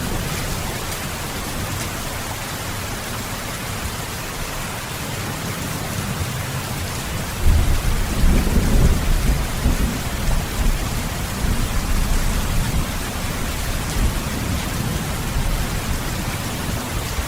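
Steady heavy rain, with a low rolling rumble of thunder that starts about halfway through, is loudest for a couple of seconds, then keeps grumbling to the end.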